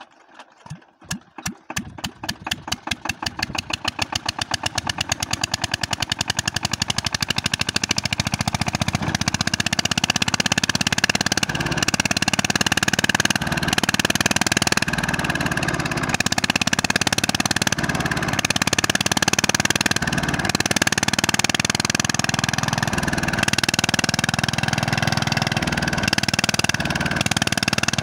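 Diesel engine catching and picking up speed: its firing beats are slow and distinct at first, then quicken and grow louder over about ten seconds until it settles into a steady run.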